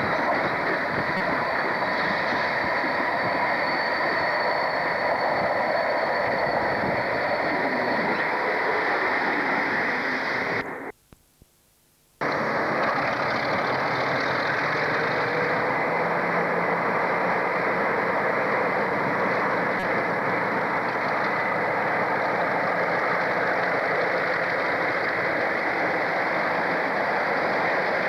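Steady, muffled running noise of a train, interrupted by a dropout to near silence for about a second and a half near the middle.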